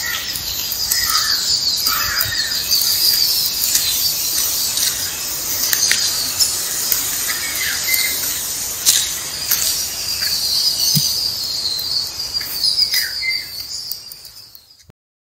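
Birds chirping over a steady high-pitched chirring. The sound fades out near the end.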